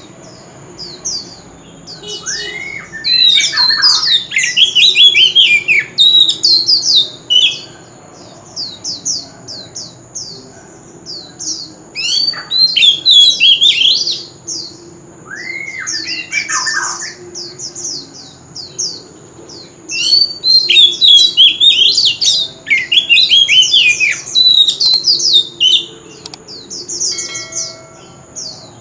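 Oriental magpie-robin singing loudly: rapid runs of varied whistles and harsher squawky notes in three long bouts, with quieter gaps between them.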